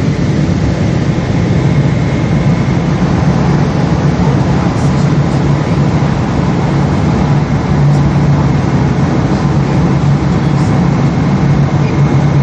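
Steady cabin noise aboard a Boeing 777: an unbroken deep rumble of the jet engines and airflow, even in level throughout.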